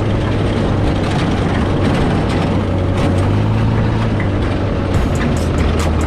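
Off-road dune buggy engine running steadily under way, a loud low drone. About five seconds in, quick rattling knocks join it.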